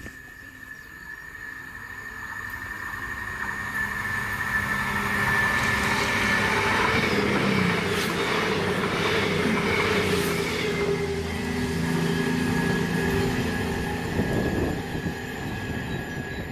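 Class 221 Super Voyager diesel multiple unit passing at speed: its underfloor diesel engines and wheels on the rails grow louder as it approaches, stay loud for several seconds as the carriages go by with a couple of sharp clicks, then fade near the end.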